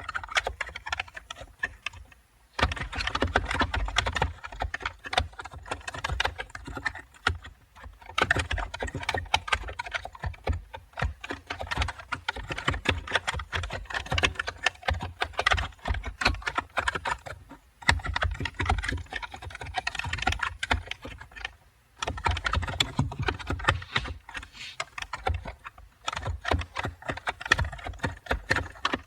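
Computer keyboard typing: a steady run of rapid, irregular keystrokes, broken by brief pauses about two and a half seconds in, around eighteen seconds and around twenty-two seconds.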